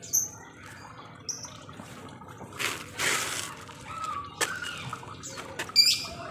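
Lovebirds calling: several short high chirps, a noisy chattering burst about two and a half seconds in, scattered sharp clicks, and a loud sharp chirp near the end.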